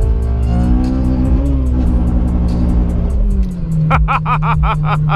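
A 2008 Honda Civic Si's engine, fitted with an aftermarket intake and a catless header, heard from inside the cabin as the car accelerates. The engine note rises in pitch, then drops about three seconds in at an upshift. Background music with a steady beat plays over it.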